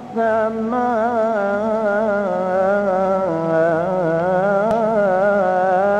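Male voice singing a long ornamented melisma of an Islamic ibtihal, a devotional supplication. The pitch waves and turns without a break, stretching out a single word.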